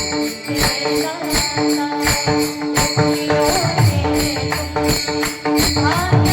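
Instrumental devotional kirtan accompaniment with no voice. Held, sustained tones play over a steady rhythm of drum beats and regular jingling metal-cymbal strokes.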